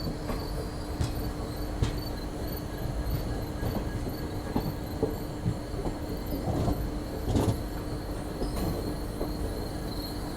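Indian Railways passenger train running, heard from aboard a coach: a steady rumble of wheels on the track, broken by irregular knocks as the wheels pass rail joints, with a faint steady hum underneath.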